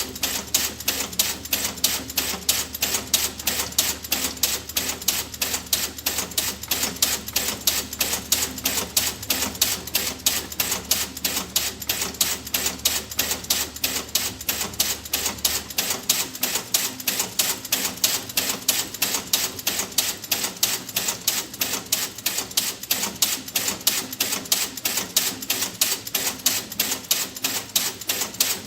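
Rapid, even clicking, about five sharp clicks a second, of the tick-tock kind. A low hum underneath stops about halfway through.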